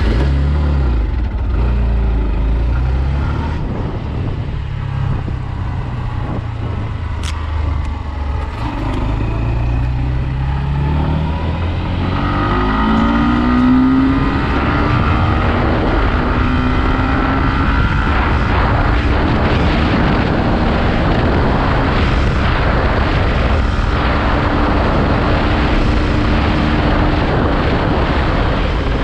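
Hero Xtreme 160R's single-cylinder engine under hard acceleration, pitch climbing and dropping back at each upshift over the first dozen seconds, then holding high revs at top speed under a heavy rush of wind and road noise.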